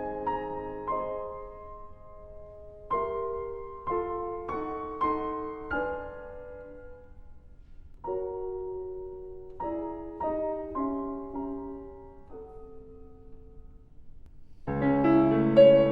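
Slow, gentle solo piano music: single notes and soft chords played in unhurried phrases, with short pauses between them and a fuller, louder chord near the end.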